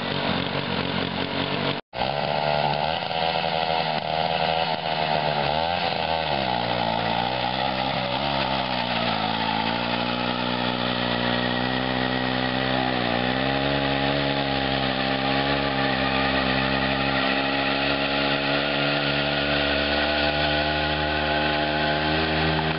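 Lawn-Boy Duraforce two-stroke engine on a racing lawn tractor running, its carburettor out of adjustment. The engine speed wavers up and down for several seconds after a brief cut near the start, then holds steady.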